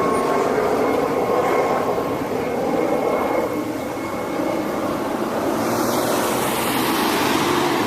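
Helicopter flying overhead, its engine and rotor making a steady drone, with a hissing rush swelling up about two-thirds of the way through.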